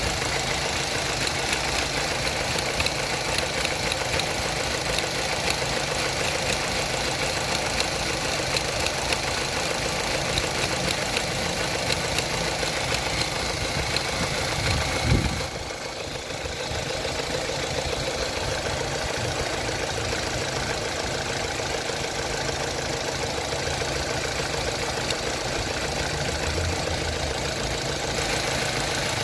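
Opel Astra H engine idling, with a repeated clicking from the throttle body. A single louder thump comes about halfway through.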